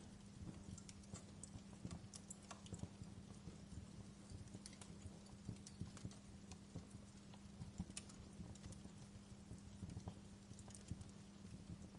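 Wood fire crackling, with irregular sharp pops and snaps several times a second over a low steady hum.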